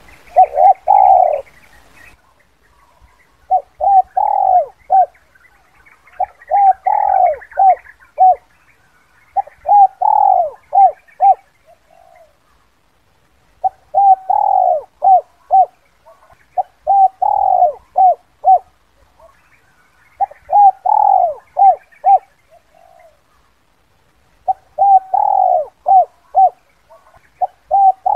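Spotted dove cooing: a phrase of a few short coos around one longer, louder drawn-out coo, repeated about every three seconds.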